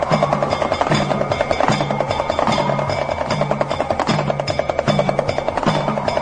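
Damru, the hand-held two-headed pellet drum, rattling in a fast, even roll of rapid clicks. Under it a deeper pitched drum stroke recurs about every 0.8 seconds as a steady pulse.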